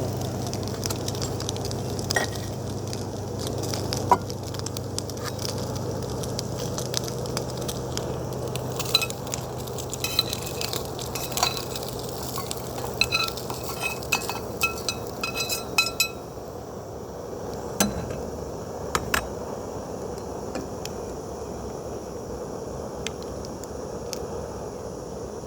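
Food sizzling in a pan on a camp stove, with a metal utensil clinking and scraping against the pan in a quick run of strikes. About sixteen seconds in, the high sizzling hiss drops away.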